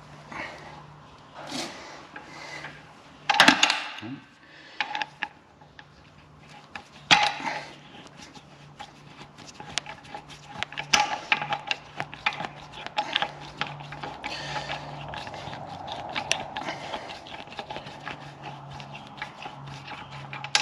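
Hand tools working on the nuts of a stripped-down engine: irregular metal clinks, knocks and scraping as a spanner turns the nuts and parts are handled, with the sharpest knocks about three and a half and seven seconds in, over a faint steady hum.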